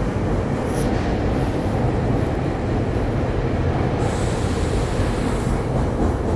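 SEPTA Regional Rail train at the platform, a steady loud low noise of the train with no break.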